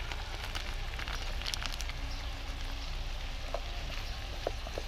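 Stir-fry of broccoli, squid and vegetables sizzling steadily in a wok over a charcoal stove, with light crackling, as sugar goes in. A few light clicks of a spatula against the pan near the end.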